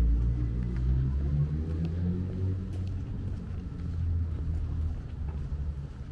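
Low engine rumble of a motor vehicle out of shot, loudest at first and fading away over about five seconds.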